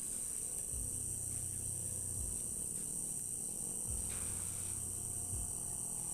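Crickets chirring in a steady, high-pitched, unbroken drone, with a brief soft hiss about four seconds in.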